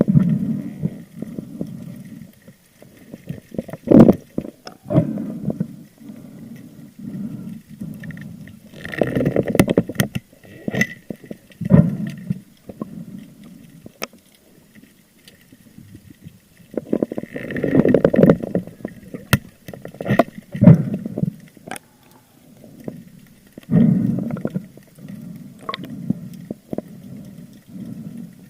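Water sloshing and gurgling around an action camera during spearfishing, coming in irregular surges of a second or two with scattered sharp clicks.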